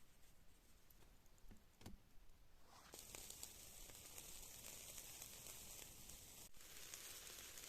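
Food frying in a pan over a campfire: a faint steady sizzle with small crackles that starts suddenly about three seconds in, after a few quiet clicks.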